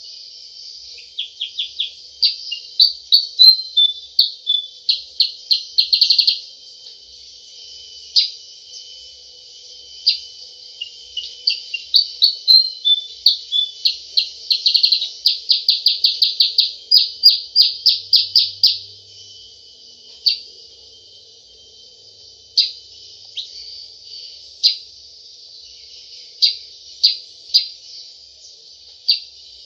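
Silver-eared mesia (kutilang sutra) giving sharp "cep cep" call notes, in fast runs of many notes a second for much of the first two-thirds, then single notes spaced a second or two apart. It is a call of the kind used to lure the birds.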